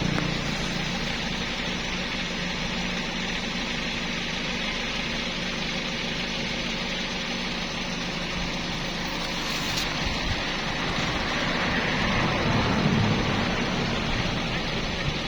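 A small engine idling steadily with a low, even hum that swells slightly about twelve seconds in.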